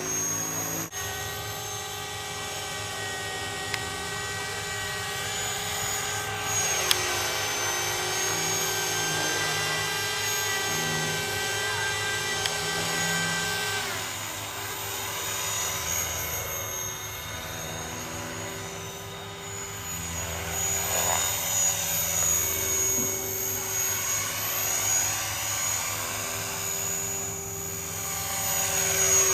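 Radio-controlled model helicopter flying, its engine and rotor giving a steady high whine that shifts in pitch as it manoeuvres. The sound swells again near the end.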